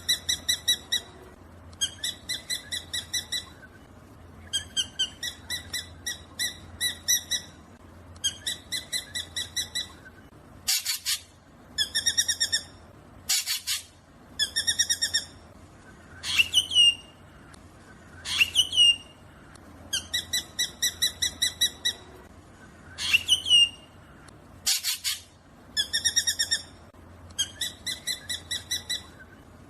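Black drongo calling: short phrases of rapid, chattering notes repeated every second or two, with a few sweeping whistled notes and three harsh, rasping calls in the middle.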